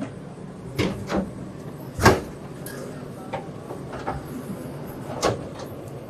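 Demolition work: a series of sharp knocks and bangs, the loudest about two seconds in, over a steady low machine hum.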